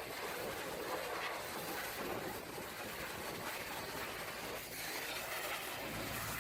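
High-pressure water spray hitting a truck's body, a steady rushing hiss. A low steady hum comes in near the end.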